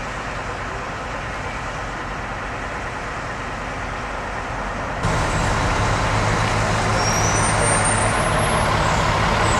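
Fire truck engine running steadily, its rumble getting suddenly louder about five seconds in.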